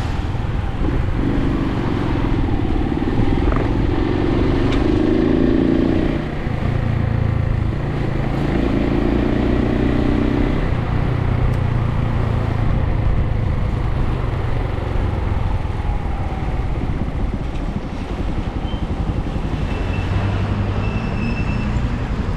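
Suzuki TU250X's single-cylinder engine running on the move, its note standing out twice, about a second in and again around eight seconds in, over steady road and wind noise.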